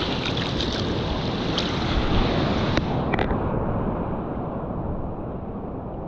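Strong wind buffeting the microphone over the rush of surf. A couple of sharp clicks come about three seconds in, after which the hiss turns duller.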